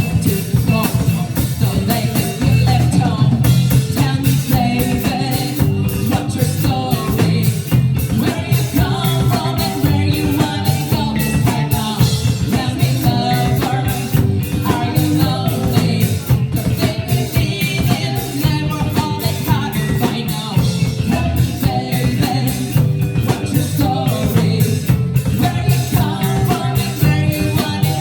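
Live rock band performance with drum kit, bass and a singing voice.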